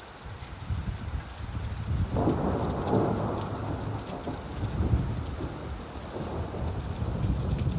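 Steady rainfall with a low roll of thunder that swells suddenly about two seconds in and fades away over the next few seconds.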